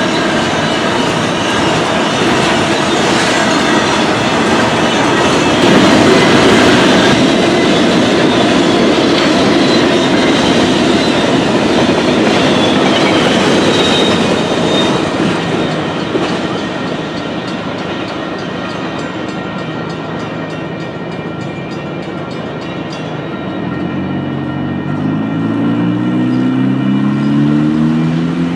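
A train rolling past with steady clickety-clack of wheels over rail joints, loudest in the first half and easing off after about sixteen seconds. Near the end, a motor vehicle's engine revs up, rising in pitch in steps.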